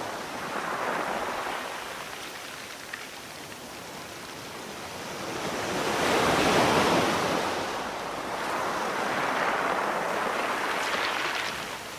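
Ocean waves breaking and washing on the shore, the surf swelling and fading in slow surges, the biggest wave peaking about halfway through.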